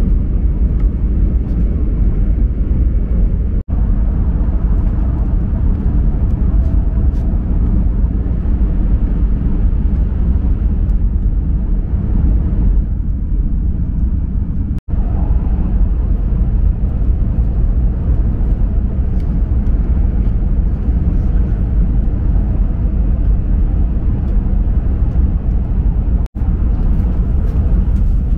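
Shinkansen bullet train running at speed, heard inside the passenger car as a steady low rumble with a hiss above it. It cuts out for an instant three times.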